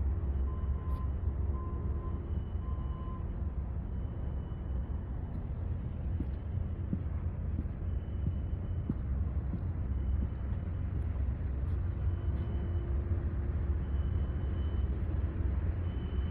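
Olympian Cat GEP200-4 generator's six-cylinder Perkins diesel engine running steadily with a deep, even rumble.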